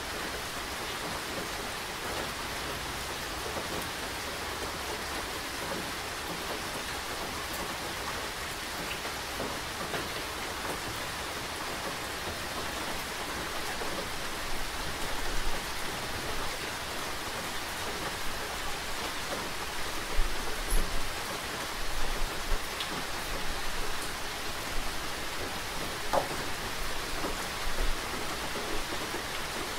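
Steady rain falling, with scattered drips ticking. A few louder low bumps come in the second half.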